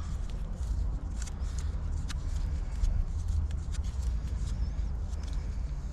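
Scattered small clicks and handling noise from pipe fittings being handled while pipe dope is applied, over a steady low rumble.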